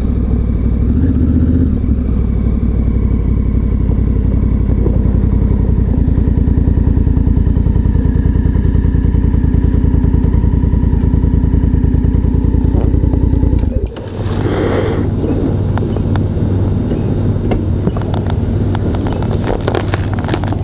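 Adventure motorcycle engine running at low speed and idling steadily. About fourteen seconds in, the even engine sound gives way abruptly to a noisier mix of rustling and clattering over a lower engine hum.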